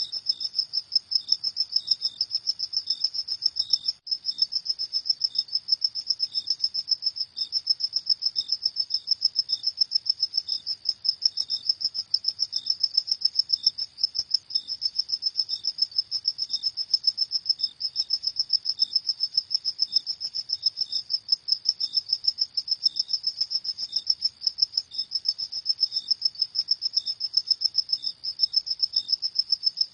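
Crickets chirping steadily in a high, fast-pulsing trill, with a fainter, lower chirp repeating at an even, slower pace.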